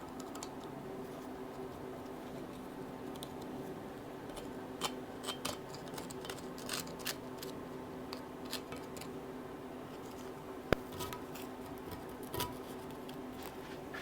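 Scattered light clicks and taps, with one sharp click about ten and a half seconds in, over a steady low hum.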